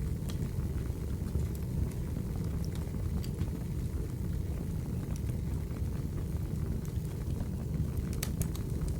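Wood fire burning: a steady low rumble with scattered sharp crackles and pops, a few coming close together near the end.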